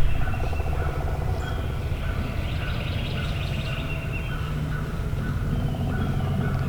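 Wild turkeys gobbling, a rapid rattling call that comes early and again near the end, with other birds calling over it.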